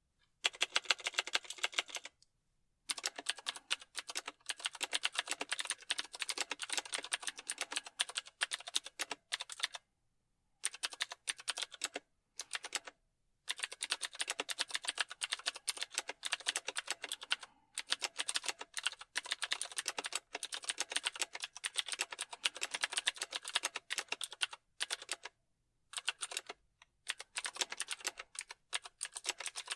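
Typing on a computer keyboard: rapid runs of key clicks, stopping for short pauses of under a second every few seconds.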